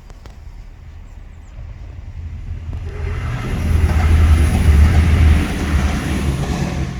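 A train passing through the level crossing: a rumble and hiss that build, are loudest about four to five seconds in, then begin to fade.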